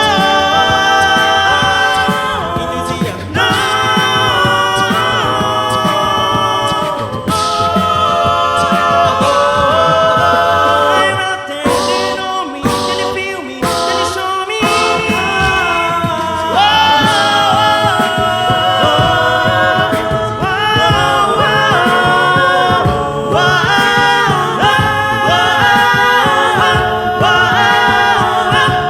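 All-male a cappella group singing in close, sustained harmonies, with a few sharp percussive hits in the middle.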